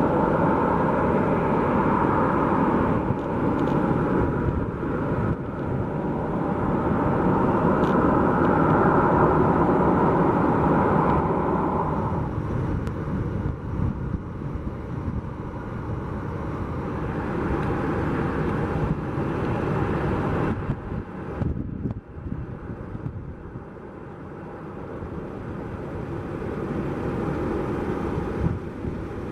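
Boeing 737-700's CFM56 turbofan engines running with a loud, steady roar, strongest for the first twelve seconds, then fading and building again near the end.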